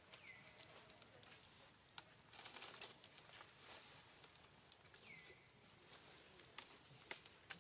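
Near silence: faint rustling and scattered clicks, with two short high chirps that fall in pitch.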